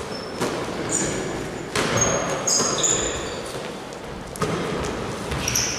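Basketball play in a gym: a ball bouncing on the court a few times, with short high squeaks of sneakers on the floor.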